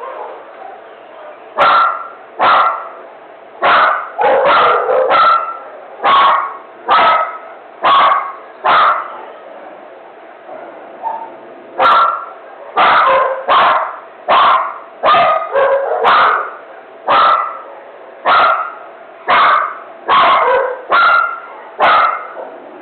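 A dog barking over and over, about one bark a second, in two long runs broken by a pause of a few seconds in the middle.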